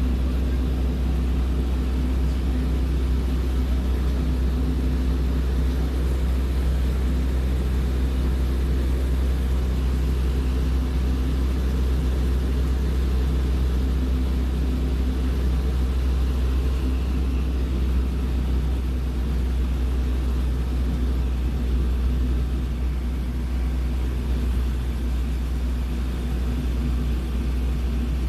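Small propeller airplane's piston engine droning steadily in cruise, heard from inside the cockpit: a deep, even hum with no change in pitch.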